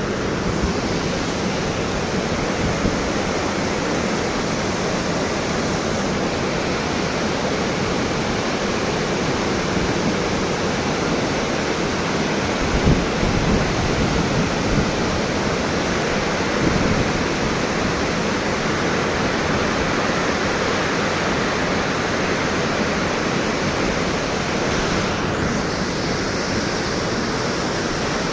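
Steady rushing noise of a large waterfall plunging into its pool close by, with wind buffeting the microphone now and then.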